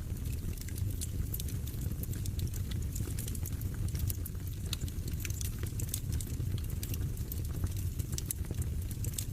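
Fire burning in a fireplace: a steady low rumble of flame with frequent irregular sharp crackles and pops.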